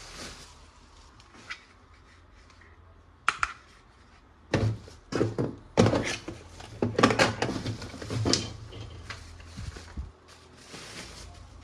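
Hard plastic toy pieces being handled: a sharp click a little over three seconds in, then a busy run of knocks, clatters and rustling between about four and a half and eight and a half seconds in, with a few lighter taps after.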